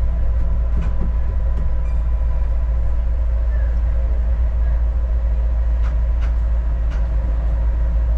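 Adelaide Metro diesel railcar heard from inside the carriage while under way: a steady low rumble with a constant whine, and a few faint clicks.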